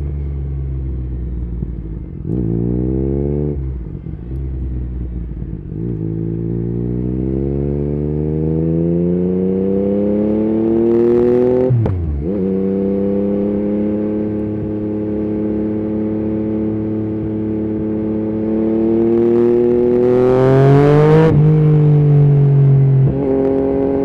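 Yamaha MT-09's inline three-cylinder engine through an Akrapovic carbon exhaust with the dB killer removed, accelerating hard through the gears. The pitch climbs steadily and falls sharply at each gear change, several times over. It is loudest near the end.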